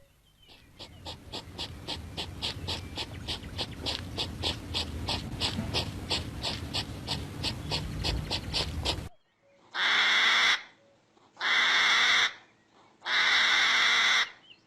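Animal calls: a rapid, even run of repeated calls, about four a second over a low rumble, that cuts off suddenly, then three loud, harsh calls of about a second each.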